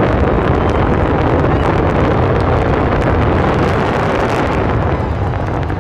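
Fireworks grand-finale barrage: many shells bursting at once in a dense, continuous rumble, with many sharp crackles over it.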